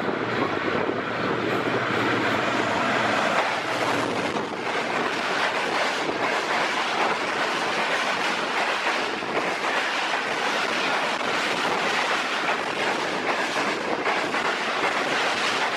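Express passenger train hauled by a ZCU-30 diesel locomotive passing at speed. A low engine hum is heard in the first few seconds, then a steady rush of coaches with the wheels clattering over the rail joints.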